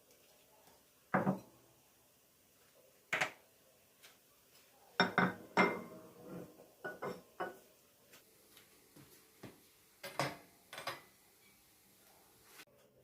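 Dishes and cutlery being handled: a string of separate clinks and knocks with short ringing. The loudest come about a second in, three seconds in and around five to six seconds in, with smaller ones later.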